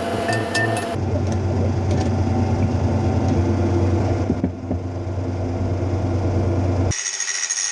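Tractor engine running steadily, a low even hum. Near the end it cuts off abruptly to a different, thinner sound with steady high tones.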